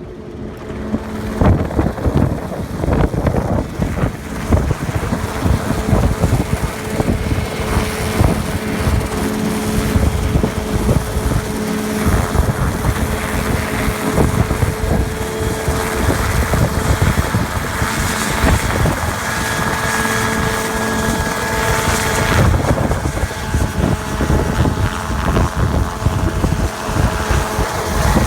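Helicopter running close by: a loud, steady rotor chop with engine whine, mixed with wind buffeting the microphone.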